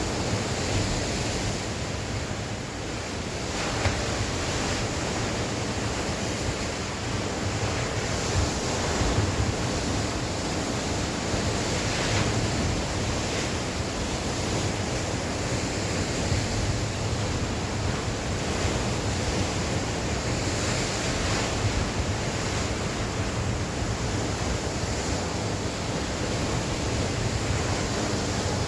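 Sea waves washing ashore in a steady rush, swelling and easing gently, with wind buffeting the microphone.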